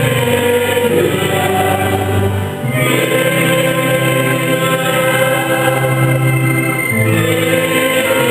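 Church choir singing a hymn at Mass, holding long chords that change twice.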